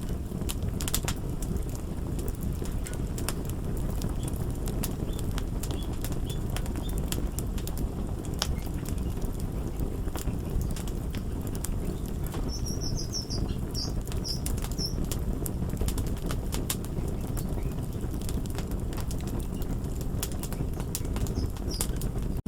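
Crackling fire: a steady low rumble with frequent sharp pops and crackles scattered throughout. A run of short high chirps sounds about halfway through.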